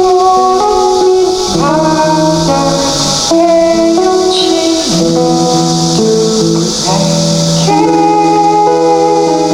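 Live band playing an instrumental passage: held melody notes that change every second or so, over a pulsing shaker-like percussion hiss.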